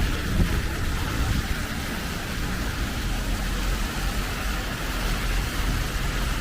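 Heavy rain falling steadily, with a low, fluctuating wind rumble on the microphone.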